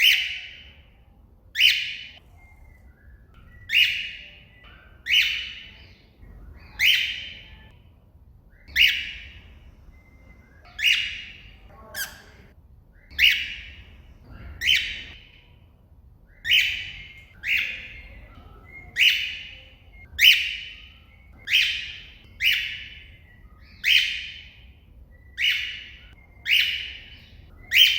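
Cockatiel giving loud, short contact calls over and over, about one every second and a half, calling out to another cockatiel.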